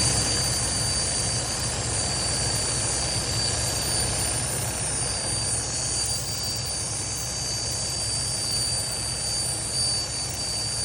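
A steady high whistle of air leaking from the exhaust port of a Detroit DD15's engine fan solenoid, over the diesel engine running steadily. The solenoid is failing, bleeding air so that the engine fan stays engaged.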